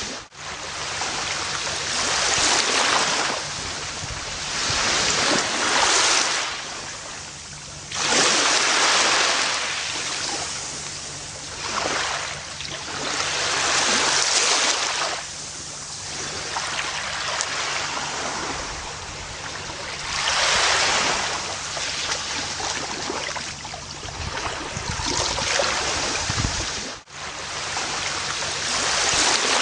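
Gentle ocean waves breaking and washing up a beach, the surf swelling and fading every few seconds. The sound drops out for an instant twice, just after the start and near the end.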